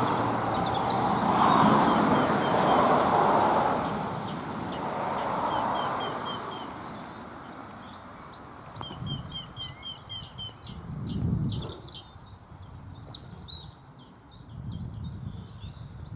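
Several small woodland birds calling and singing, with repeated short, high, falling notes and quick runs of chips. A rushing noise fills the first few seconds, and a few low rustles come later.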